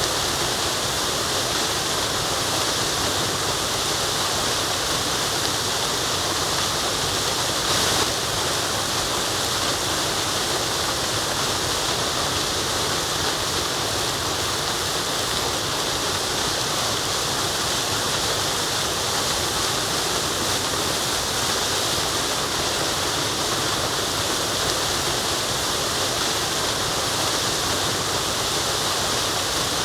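Waterfall: a steady rush of falling water, with a brief louder moment about eight seconds in.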